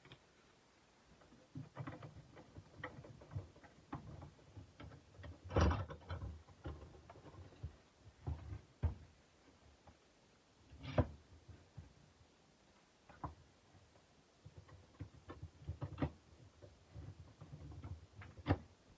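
Irregular knocks and clicks with stretches of low rubbing, from a kukri blade and sanding gear being handled; three sharper knocks stand out, near the middle, about eleven seconds in and near the end.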